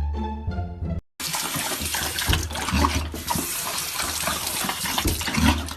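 A moment of string music, then after a cut a steady rush of running water, like a tap, with scattered low knocks.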